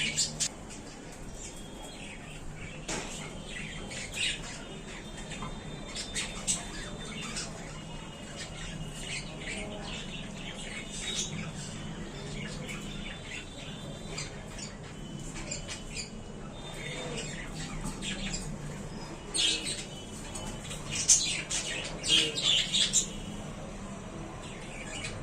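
Budgerigars chirping and squawking in short, scattered calls, with a louder flurry of squawks near the end.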